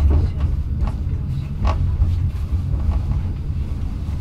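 Passenger train running along the track, heard from inside the carriage: a steady low rumble of wheels on rails, with a few short sharp clicks.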